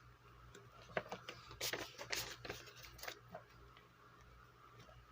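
Faint rustling of paper with a few light clicks and taps, as paper cash and envelopes are handled, mostly in the first half.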